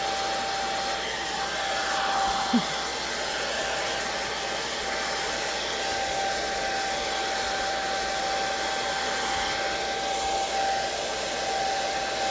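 Hair dryer blowing steadily: a constant rush of air with a steady whine. A brief knock comes about two and a half seconds in.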